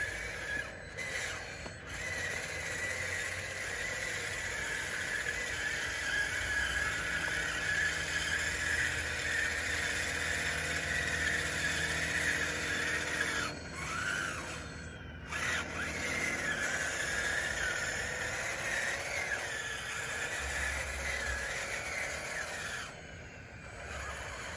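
RC bulldozer's electric drive motors and gearboxes whining as it pushes dirt, the pitch wavering with the load. The whine stops briefly twice, about halfway through and near the end.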